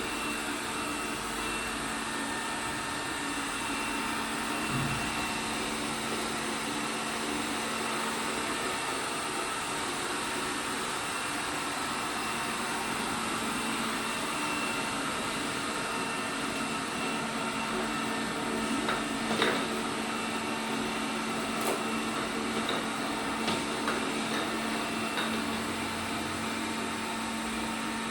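ELARI SmartBot Lite SBT-002A robot vacuum running steadily: a constant motor hum with a whirring hiss, and a few light knocks in the second half.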